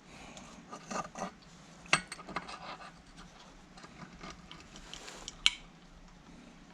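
Light clinks, taps and scraping of small metal parts and tools being handled, with a sharp click about two seconds in and another, louder one about five and a half seconds in.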